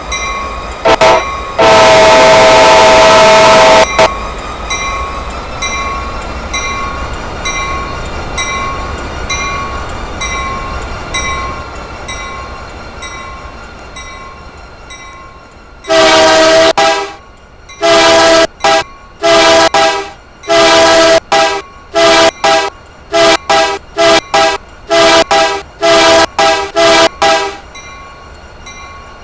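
Freight locomotive air horn sounding a chord: a couple of short blasts and a long one at the start, then, after a fading rumble of the passing train, a rapid run of about a dozen short blasts before it stops.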